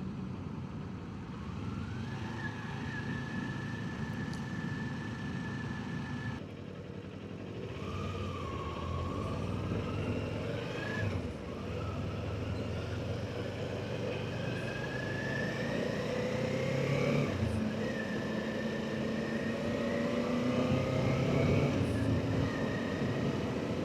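Kawasaki Ninja 400's parallel-twin engine, through its quiet stock muffler, pulling under acceleration: its pitch rises steadily and drops sharply at upshifts, about 11 and 17 seconds in, then climbs again.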